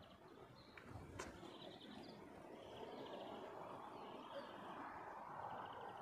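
Faint birdsong: short chirping trills repeating every second or so over a steady background hush, with a single sharp click about a second in.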